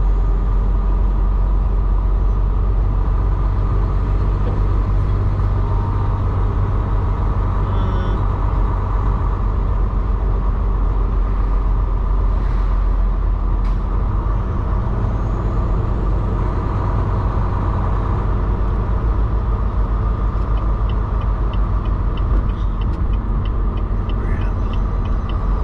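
Semi-truck driving: a steady, loud low rumble of the diesel engine and road noise with an even engine hum. Faint light ticks come about twice a second near the end.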